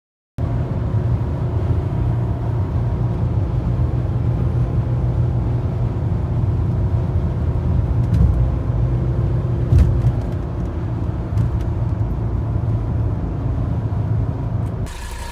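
Mercedes-Benz 300SD's five-cylinder turbo-diesel car running with a steady low rumble, starting abruptly, with a brief hiss near the end.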